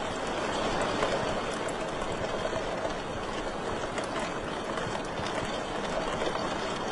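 Wood fire crackling in a fireplace: a steady rushing hiss with scattered small pops.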